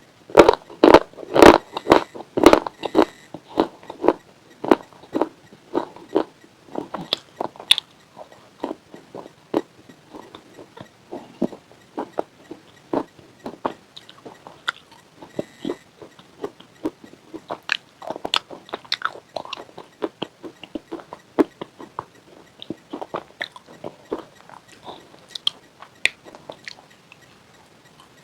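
Close-up biting and chewing of hard, crunchy white chips with a pink layer. A dense run of loud crunches over the first few seconds gives way to slower, irregular crunches.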